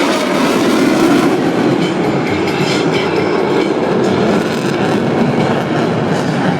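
Loud, steady jet noise of a MiG-29N fighter's twin RD-33 turbofan engines during a display flight.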